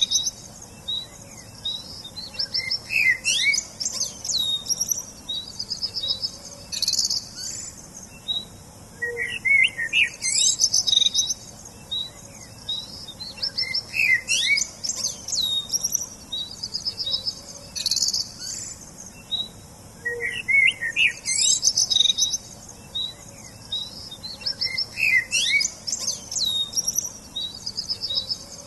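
Songbirds chirping and singing in bright, high-pitched phrases of quick chirps and trills, with several songs overlapping and short pauses between bursts.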